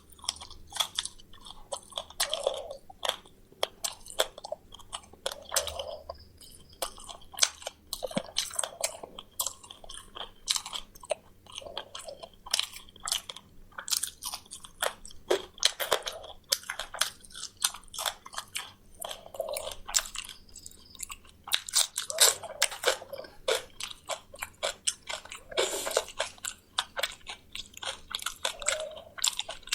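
A person chewing and crunching fried quail close to the microphone, with irregular crisp crunches several times a second and wetter chewing in between.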